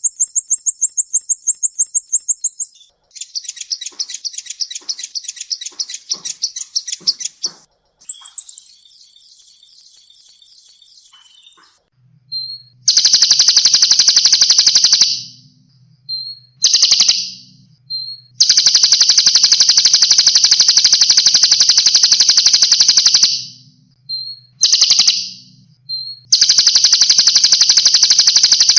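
Recorded songbird song played as masteran, tutoring song for cage birds. It opens with short, fast, high trill phrases that change every few seconds, then moves into long, rapid, unbroken trills lasting several seconds each, separated by brief pauses with short chips.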